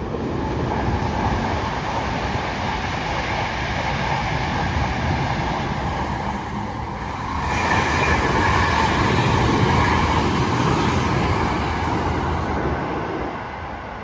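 A train running past: its rumble swells in at the start and grows louder about seven and a half seconds in. It dies away near the end.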